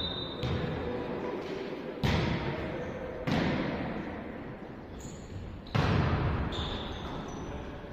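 A volleyball being struck and hitting the floor during play, four sharp smacks over about six seconds, each echoing through a large gym, with brief squeaks from sneakers on the court.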